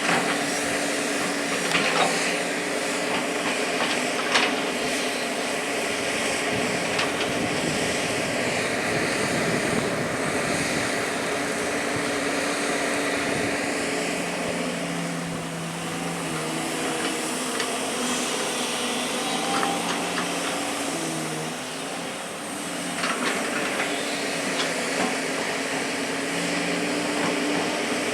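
Hydraulic excavator's diesel engine running steadily under working load, its pitch shifting now and then as the hydraulics work. A few short knocks come through, about two and four seconds in and again near the end.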